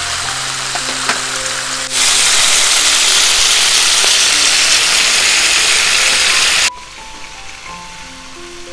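Stir-fry sizzling loudly in a hot pan, a steady hiss that starts abruptly about two seconds in and cuts off sharply near seven seconds, over background music. Fainter sizzling at the start; only the music near the end.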